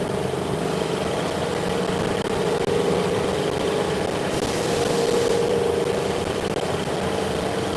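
Steady drone of workshop machinery running, with a constant mid-pitched hum. A brief hiss rises about four seconds in and lasts about a second.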